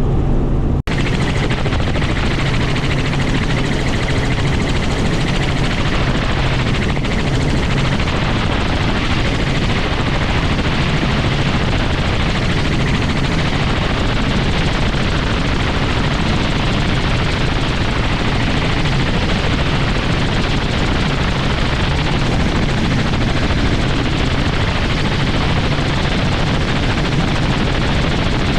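Helicopter running steadily: the continuous noise of its rotor and engine.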